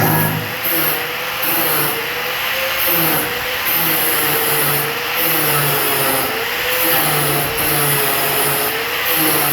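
Angle grinder working steel, a steady grinding hiss with a whine whose pitch wavers up and down as it bears on the metal.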